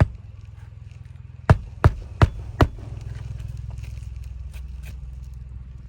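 A hammer striking four times in quick, even succession on roofing nails in asphalt shingles, over a steady low hum.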